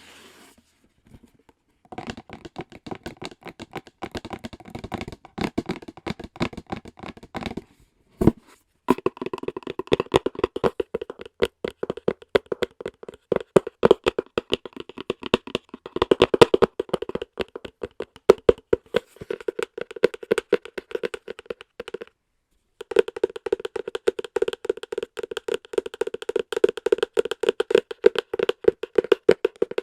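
Rapid fingertip tapping on a hard object for ASMR, in fast continuous runs. It breaks off briefly about 8 and 22 seconds in.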